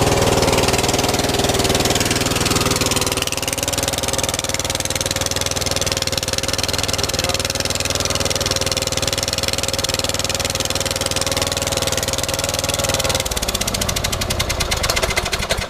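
Riding mower's Kohler 20 hp engine running with the sound of a bad exhaust leak. Near the end it is shut off: its firing pulses slow and die away.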